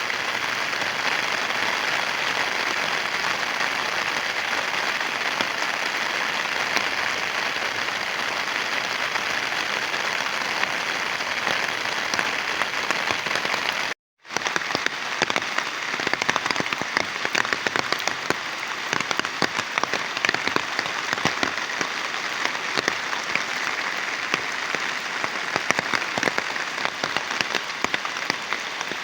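Heavy rain falling steadily. After a brief cut about halfway through, the rain carries many sharper, closer drop hits.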